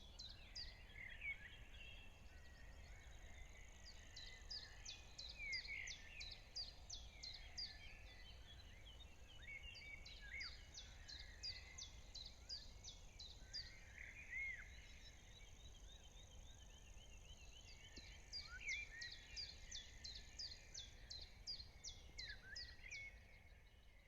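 Faint birdsong from several birds. One bird repeats quick series of high, thin notes in three bouts, about three or four notes a second, over other warbling calls and a low steady rumble.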